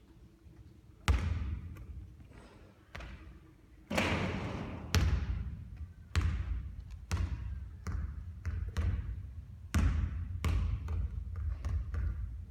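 A basketball striking and bouncing on a hard court, a dozen or so sharp thuds at uneven intervals with a short ringing echo after each. The loudest come about a second in, around four to five seconds in, and near ten seconds.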